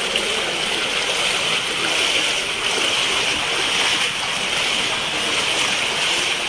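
Steady rushing of flowing water, an even hiss that holds level throughout.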